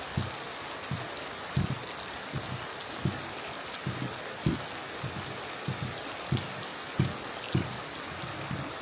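Heavy rain falling steadily, with big drops landing in irregular low thuds about one or two a second.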